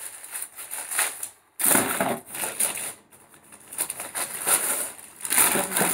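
Packaging wrap crinkling and rustling in irregular bursts as a stainless steel saucepan is unpacked.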